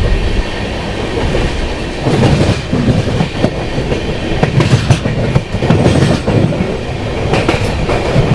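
Jan Shatabdi Express passenger train running out of a station: the wheels clack over rail joints over a continuous rumble that swells several times.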